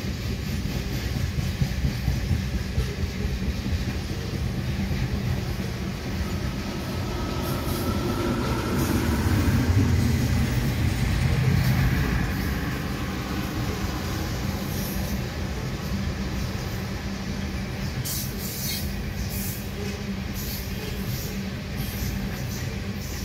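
Loaded ethanol tank cars of a freight train rolling past, a steady low rumble of steel wheels on rail that grows loudest about ten seconds in. The cars are fully loaded, their springs pressed down.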